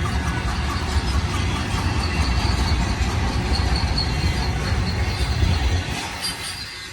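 Intermodal freight train cars rolling past, a steady low rumble of wheels on rail with a faint high wheel squeal over it. The low rumble drops away about six seconds in.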